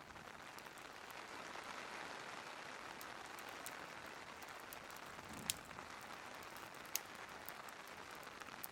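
Steady rain hiss, with two sharp clicks about five and a half and seven seconds in.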